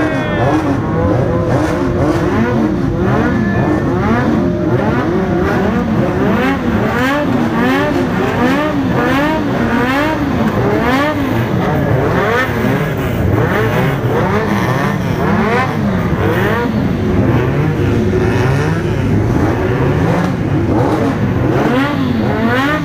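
Several motorcycle engines, Honda CBX750F '7 Galo' inline-fours among them, revving together, their pitch rising and falling over and over in overlapping blips.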